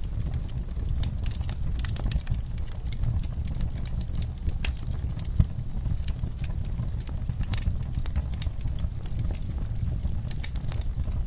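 Wood fire crackling: irregular sharp pops and snaps over a steady low rumble of flames, with one louder pop about halfway through.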